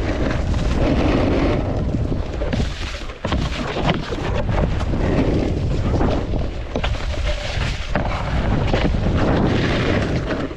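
Wind buffeting the microphone together with a snowboard sliding and scraping over snow while riding, a loud steady rushing noise that drops away briefly about three seconds in.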